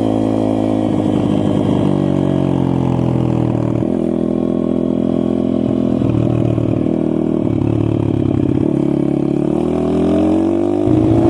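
SSR 160 pit bike's single-cylinder four-stroke engine running while ridden, its pitch stepping up and down with throttle and gear changes and climbing near the end as it accelerates.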